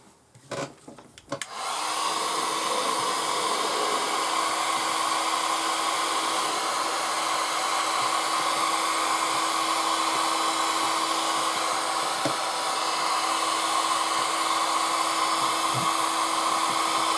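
Spot cooler (portable air conditioner) starting up: a few knocks, then about two seconds in a steady rush of blown air with a steady hum runs on without change.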